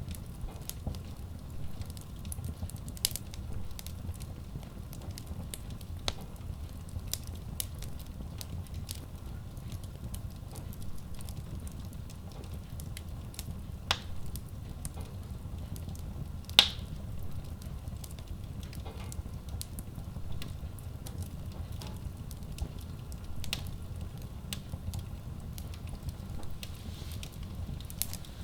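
Wood logs burning in a Kratki Koza K6 stove-fireplace: a steady low rumble of flames with constant crackling and scattered sharp pops. The loudest pop comes about halfway through.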